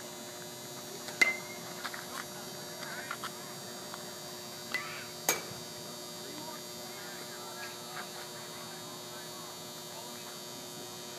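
Steady electrical hum under faint, distant voices, broken by two sharp pops, the louder one about a second in and another about five seconds in.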